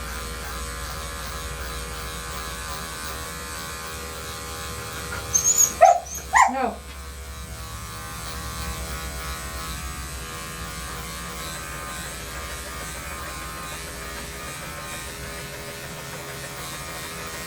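Electric dog grooming clippers running steadily with a hum. About six seconds in, the dog barks twice, sharply and loudly.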